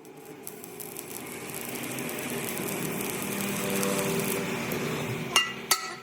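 A power tool runs on steel for several seconds, growing louder, then stops. Two sharp, ringing metal-on-metal hammer blows follow near the end.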